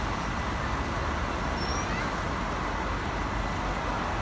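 Steady engine and road rumble of a city tour bus on the move, with a few faint, brief high squeaks about two seconds in.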